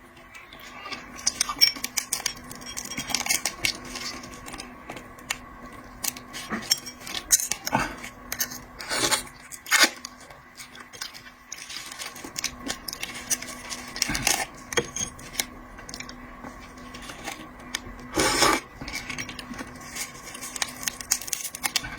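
Irregular crackling and clicking of shellfish shells being peeled by hand, with clinks against a plate, over a faint steady hum.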